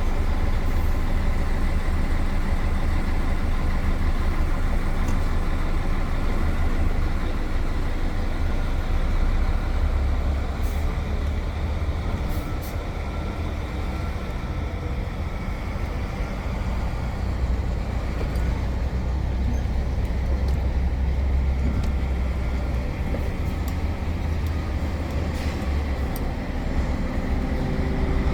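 A diesel truck's engine runs steadily at road speed, heard from inside the cab, over a constant hiss of tyre and road noise. A few light clicks and rattles come through now and then.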